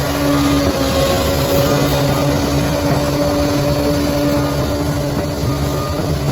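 Bulldozer's diesel engine running steadily, with a low rumble and a steady droning whine over it.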